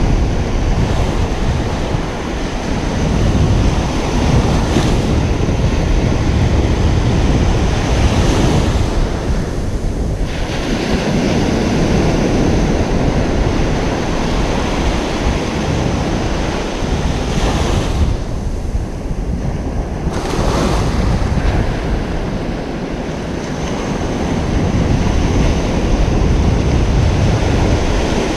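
Ocean surf breaking and washing on a beach, surging and easing every several seconds, with wind buffeting the microphone as a low rumble.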